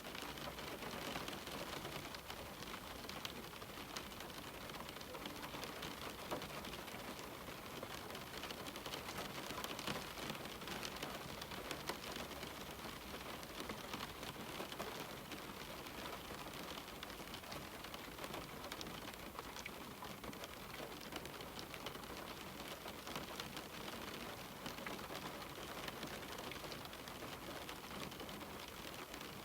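Rain falling steadily on a window, a soft even patter made of many small drop ticks.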